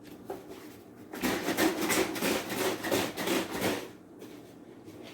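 Vanilla almond milk being poured into a measuring cup. It is a splashing pour that starts about a second in and lasts nearly three seconds.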